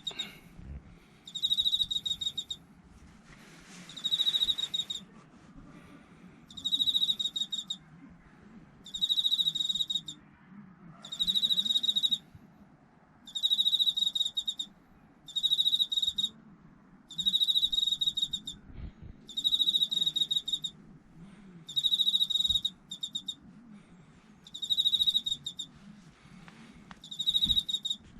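Cricket chirping: trilled chirps about a second long, repeating steadily about every two seconds.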